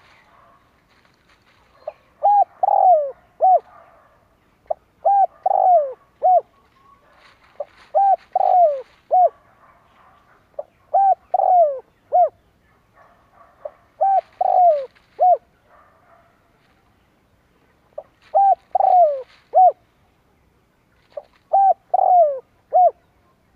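Spotted dove cooing: a phrase of three to four short, falling notes repeated seven times, about every three seconds. Faint chirping of other birds sounds between the phrases.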